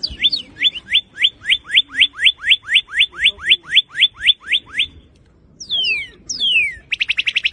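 Northern cardinal singing: a run of about seventeen clear, rising slurred whistles at about four a second, then two long falling whistles, then a rapid trill starting near the end.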